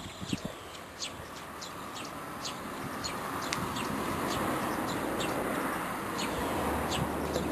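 A small bird chirping over and over, two or three short high chirps a second, over a rushing background noise that swells through the middle. A couple of sharp knocks right at the start.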